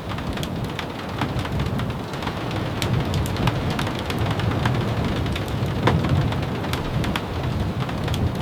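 Steady rain, with a low rumble underneath and scattered sharp ticks throughout.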